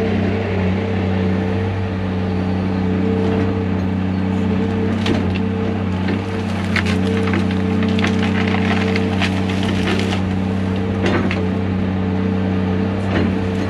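A heavy machine's diesel engine running steadily under load while wood cracks and splinters, with a dense run of snaps in the middle and more near the end: trees and brush being broken during land clearing.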